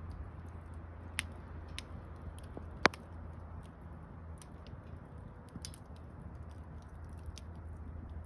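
Wood burning in a campfire, crackling with scattered sharp pops, one loud crack about three seconds in, over a steady low rumble.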